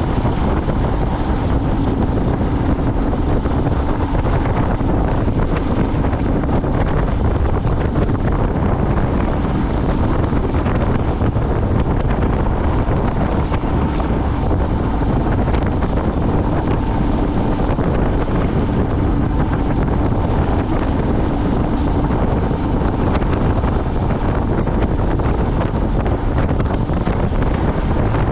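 Vehicle driving at a steady speed: continuous engine drone and road noise with wind buffeting the microphone.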